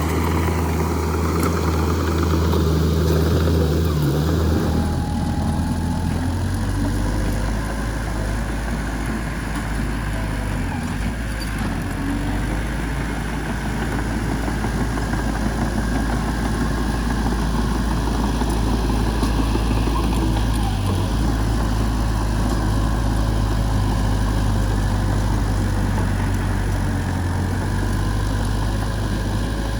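Heavy diesel engine of a bulldozer or dump truck running steadily at low revs, its low note shifting down about four to five seconds in.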